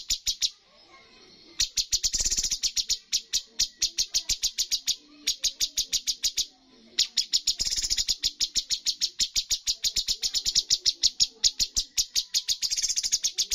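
Cucak cungkok singing its rapid-fire 'tembakan' song: long runs of sharp, evenly repeated high notes, several a second, broken by short pauses about a second in and again around the middle.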